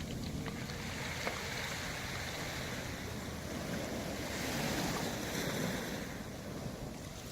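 Sea waves washing over a beach of smooth round pebbles, a steady surf with faint clicks of stones rolling in the water; one wave swells about halfway through.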